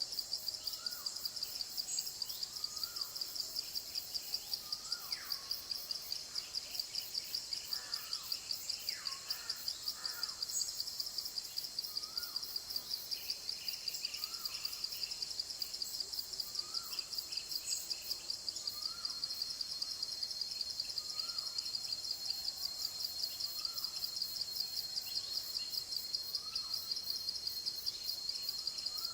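Forest ambience: a steady, high-pitched, rapidly pulsing insect chorus, with one bird repeating a short call about every second and a half and other birds calling now and then.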